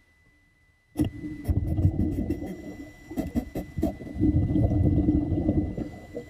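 Muffled, low water sloshing and gurgling with scattered clicks and knocks, starting suddenly about a second in.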